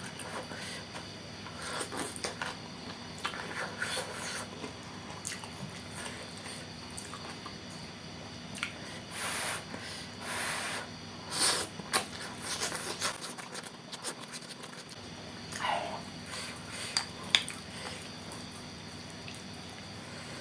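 Close-up eating sounds of spicy wet noodles topped with bean sprouts: irregular slurps and wet chewing with small mouth clicks, the longest slurps from about halfway through.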